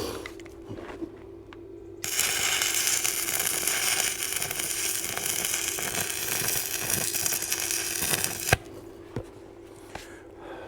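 Stick (MMA) arc welding at about 105 amps. The arc strikes about two seconds in, crackles and hisses steadily for some six seconds, then breaks off with a sharp snap. A steady hum runs underneath throughout.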